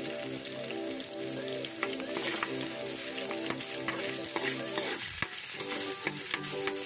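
Sliced red onion and garlic sizzling in hot oil in a wok, with a metal spatula scraping and clicking against the pan as it stirs.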